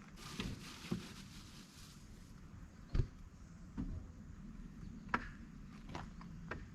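Scattered knocks and clicks of things being handled and set down, with one louder thump about three seconds in.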